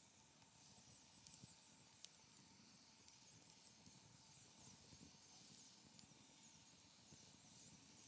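Faint wood fire burning, with a low crackly rustle and a few sharp pops in the first couple of seconds. Faint high chirps run in the background.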